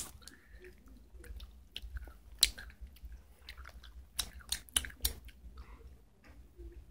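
Someone chewing Skittles close to the microphone: soft, irregular mouth clicks and smacks, a few of them louder.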